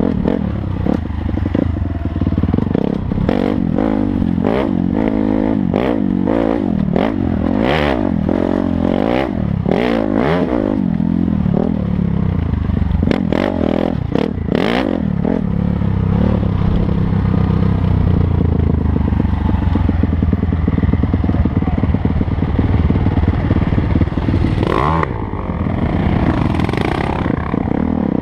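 Dirt bike engine running under way, its pitch rising and falling as the throttle opens and closes. Many short knocks and rattles come through between about 3 and 15 seconds in.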